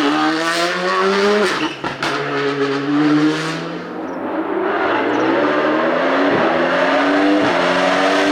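Competition car's engine on a hillclimb run, accelerating hard with its pitch climbing, briefly breaking off about a second and a half in as it shifts up. It backs off around the middle, then pulls and climbs again.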